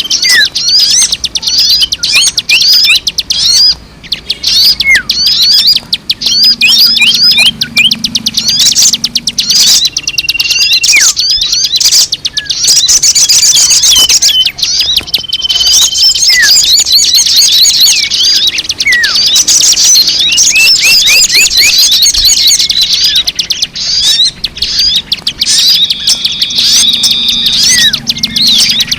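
Dense chorus of many small birds chirping and twittering rapidly and without pause, with a few short steady whistles and falling whistled notes mixed in: a bird-lure playback recording of mixed bird calls.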